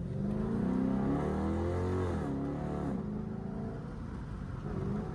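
Straight-piped Dodge Durango exhaust under acceleration: the engine note climbs for about two seconds, drops sharply at an upshift, then settles into a steadier, quieter drone.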